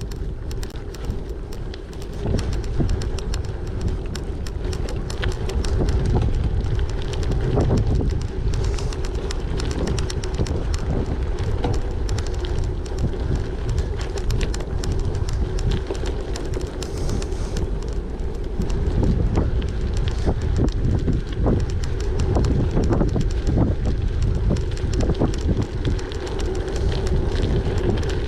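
Gravel bike riding: tyres rolling and crunching over loose stones with a constant fast rattle and a steady hum, and wind buffeting the microphone.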